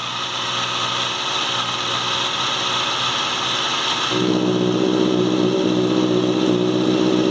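Honda CBR650 inline-four engine idling with a steady hiss over it; about four seconds in, its low exhaust note comes in much stronger and holds steady.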